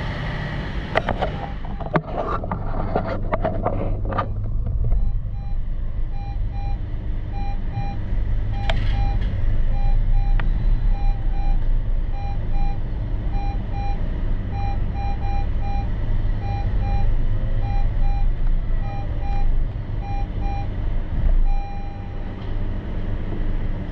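2020 Honda CR-V 2.0L engine idling with a steady low hum. A few clicks and knocks come in the first few seconds. After that, short electronic beeps repeat in irregular groups over the hum.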